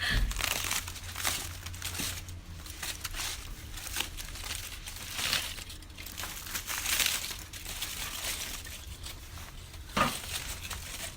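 Wood campfire crackling and popping irregularly, with a sharper pop about ten seconds in.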